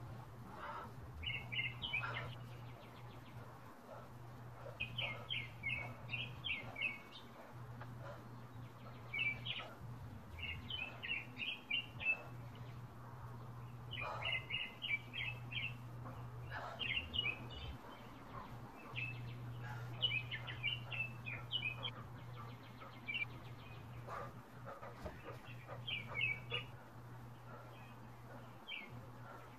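Songbird singing short, rapid chirpy phrases that repeat every one to three seconds, over a steady low hum.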